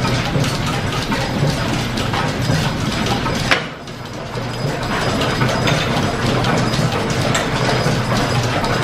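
Old line-shaft-driven machine-shop machinery running: a dense, steady clatter of quick ticks over a low hum. A sharp click comes about three and a half seconds in, followed by a brief drop in level.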